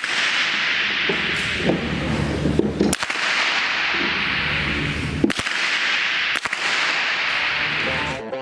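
Rifle shots: about four sharp cracks spread through the clip, over a steady hiss.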